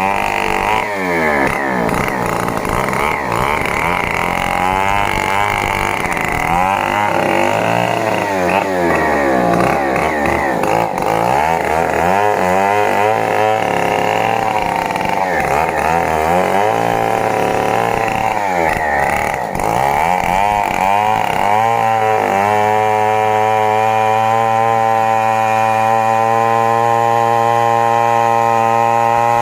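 Stihl 070 two-stroke chainsaw cutting wood, its engine speed swinging up and down under load. About 22 seconds in, it settles into a steady, unchanging note.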